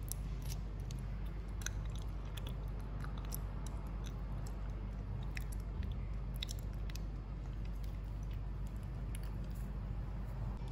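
Close-up eating sounds of frozen honey jelly being bitten and chewed: scattered small clicks and crunches, thinning out after about seven seconds, over a steady low hum.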